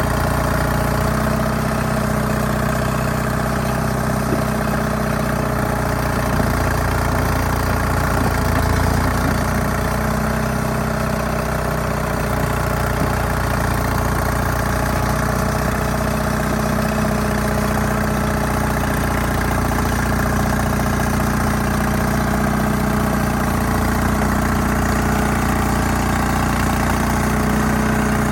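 Allis-Chalmers HD5 bulldozer's GM 3-71 two-stroke diesel engine running steadily.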